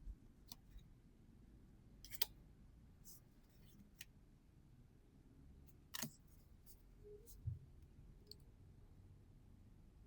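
Faint, scattered clicks and snaps of trading cards and booster packs being handled, about eight in all, the sharpest about two seconds and six seconds in.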